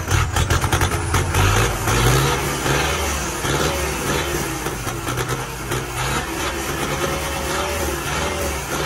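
Erkunt Haşmet 110 tractor's Perkins diesel engine being revved: the throttle is blipped sharply just after the start, the revs climb around two seconds in, then rise and fall repeatedly with a loud exhaust note.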